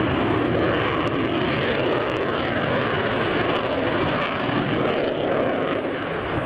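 An airplane's engine running, a loud steady rush of noise with no sudden changes.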